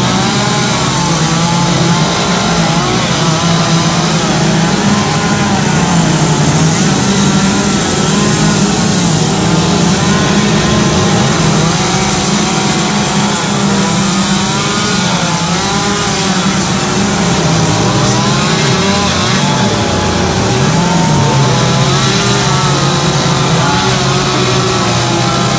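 Chainsaw engine running under load as it carves wood, its pitch wavering up and down without pause as the throttle and cutting load change.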